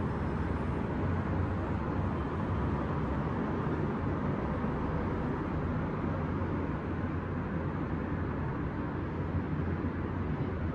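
Steady city traffic noise heard from above the street at night: a continuous low rumble of passing vehicles with no single event standing out.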